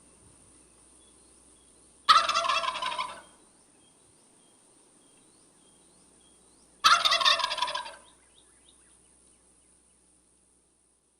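Domestic turkey gobbling twice, each gobble a rapid rattling call lasting about a second, the second one some five seconds after the first. Faint small chirps are heard in between.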